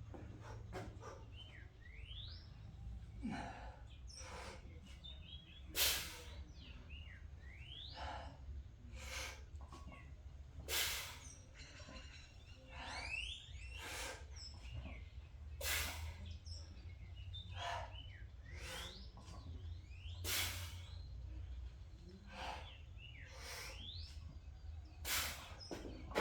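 A man's sharp, forceful breaths during paused squats, one every one to three seconds. Birds chirp between the breaths over a steady low hum.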